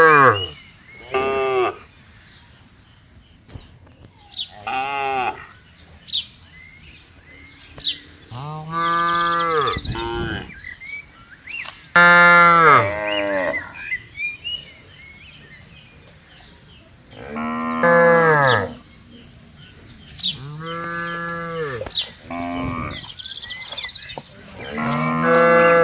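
Cattle mooing, about eight separate calls with short quiet gaps between them. Most calls fall in pitch as they end.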